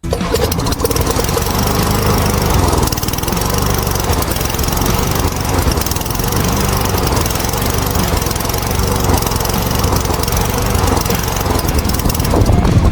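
PowerMore 140cc single-cylinder engine on a Craftsman (MTD) walk-behind lawnmower running steadily. It is now running after a carburettor clean that cured its start-and-die fault.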